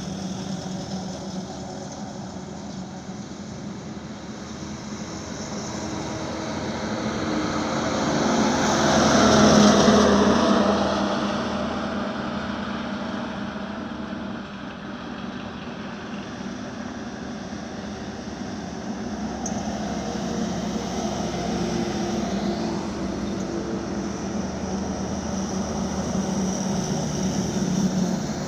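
Steady engine hum of a truck on a highway. About ten seconds in, another vehicle passes close, swelling to the loudest point and then fading away.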